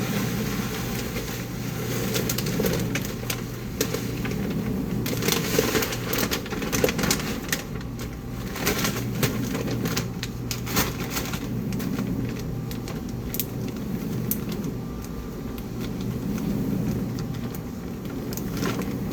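Dishwasher running with a steady low hum and whoosh, with scattered clicks and rattles of handling over it.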